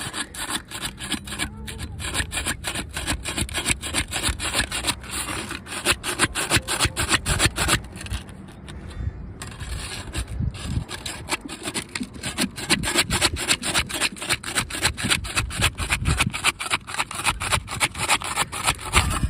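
An asphalt roof shingle being unsealed from the course beneath: a tool scraping back and forth under the tab to break its seal, in quick repeated strokes, several a second, with a quieter stretch around the middle.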